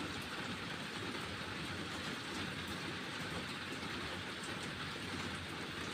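Steady rain: an even hiss with no breaks or distinct drops standing out.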